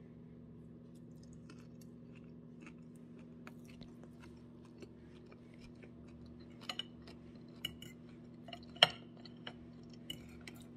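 A person chewing food, with scattered clicks and taps of cutlery on a plate, most of them in the second half and one louder tap near the end, over a steady low hum.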